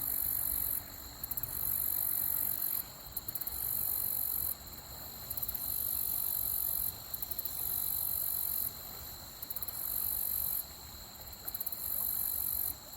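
Insect song: a very high-pitched buzz in repeating phrases of about one and a half to two seconds, each starting with a quick stutter and separated by short pauses, over a low rushing background.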